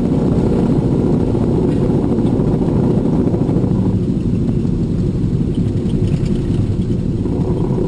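Cessna T210's turbocharged six-cylinder engine and propeller droning steadily, heard inside the cabin on final approach.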